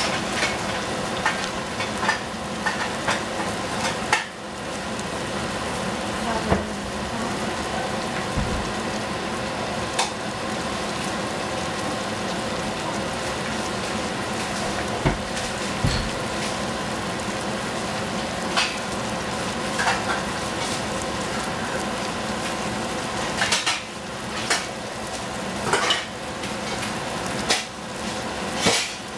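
Tomatoes and scrambled egg sizzling in a stainless steel saucepan on a gas stove: a steady crackle with scattered sharper pops, over a faint steady hum.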